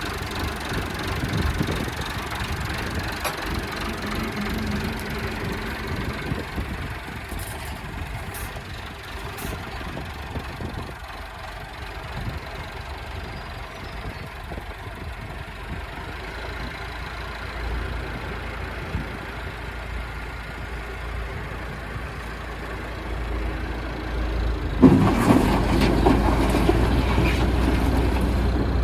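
Engine running steadily, with a sudden jump to a louder, heavier running about 25 seconds in.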